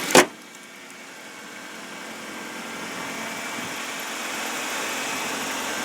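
2010 Ford Focus's 2.0-litre Duratec inline-four idling steadily after a cold start, with one sharp knock about a quarter second in.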